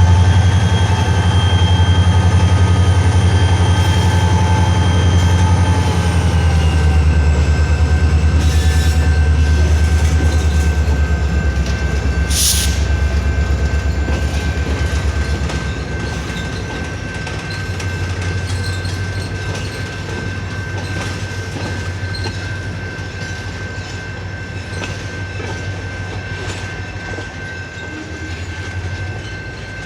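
A CN freight train rolling past: the diesel locomotives' low engine rumble is loud at first and dies away after about fifteen seconds, leaving the cars clacking over the rail joints. A steady high tone runs throughout, with one sharp click about twelve seconds in.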